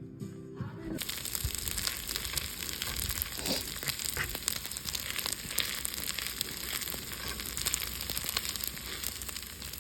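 Background music cuts off about a second in, followed by a steady crackling hiss with many small clicks.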